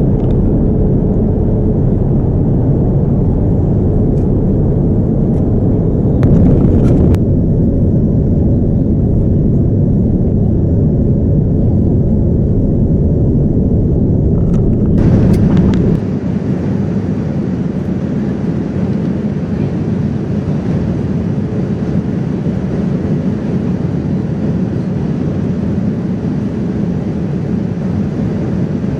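Steady rumble and rush of a Boeing 787-9 airliner heard from inside the cabin, with a few faint clicks. About halfway through the sound changes abruptly: the deep rumble drops and a higher hiss takes over.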